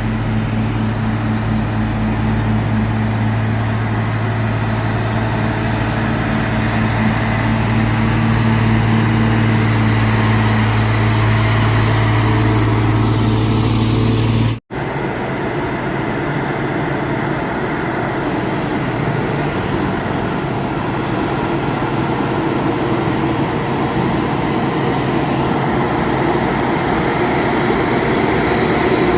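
Truck diesel engine running under load with a steady low drone. About halfway through there is a sudden cut to a noisier, rougher engine sound with a faint high whine over it.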